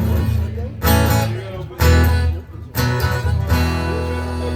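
Acoustic guitar playing the closing chords of a song: a few strong strums about a second apart, then a final chord left ringing.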